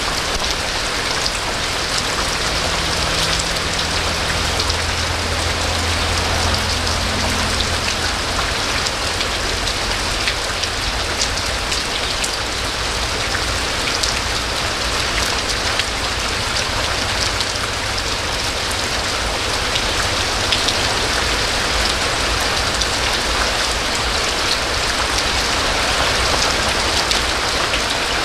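Steady heavy rain falling and pattering on surfaces, with a low hum underneath for the first several seconds that fades away.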